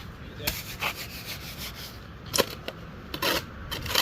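Cement mortar being mixed by hand, a tool scraping and slapping through the wet mix in a few irregular strokes.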